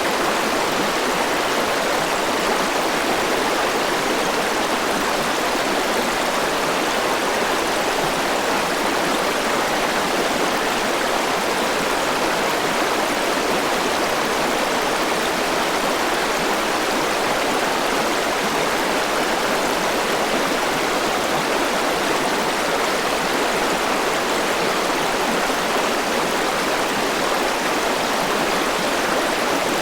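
Forest river flowing over rocks, a steady rushing water sound with no change in level.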